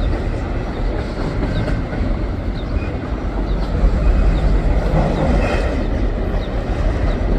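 A long freight train of empty trash cars rolling past close by: a steady rumble and rattle of steel wheels on the rails, a little louder from about four seconds in.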